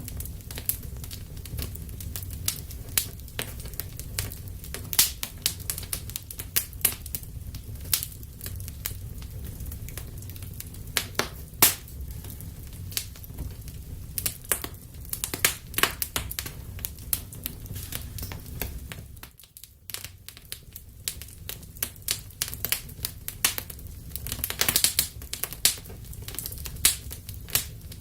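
Wood fire burning in a fireplace: irregular sharp crackles and pops over a steady low rumble of flames. The rumble dips briefly about two-thirds of the way through.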